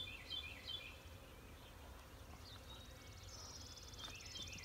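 Songbirds chirping in short repeated phrases, with a high, rapid trill joining about halfway through, over a low wind rumble.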